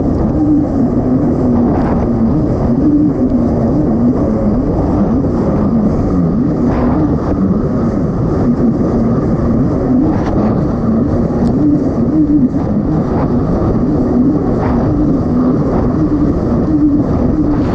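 Kawasaki STX-160 jet ski's four-cylinder four-stroke engine running hard at speed, its note wavering up and down continuously.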